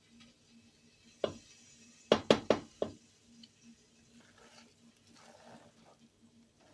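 Cookware knocking in the kitchen: one sharp knock about a second in, then four quick knocks in a row a moment later, as of a utensil or lid striking a pot.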